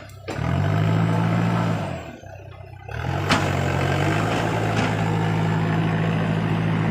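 Diesel engine of a Case heavy tractor revving hard, easing off twice and revving back up, then holding a steady high note under load. There is a sharp click shortly after the second rev-up.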